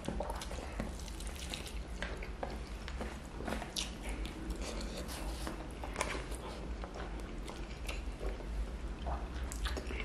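Close-up eating by hand: wet chewing, lip smacks and short squishy clicks as fried chicken is bitten and fingers work through rice and sambal, over a steady low hum.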